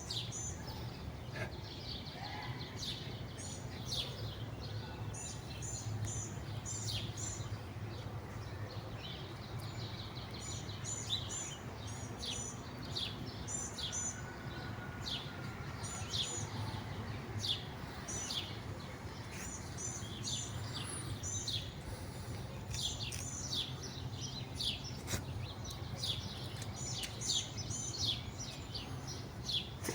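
Small birds chirping and calling, short high notes repeating many times throughout, over a steady low background hum.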